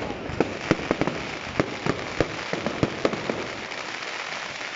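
Fireworks going off: a rapid, irregular series of sharp bangs for the first three seconds or so, over a steady hiss that carries on after the bangs stop.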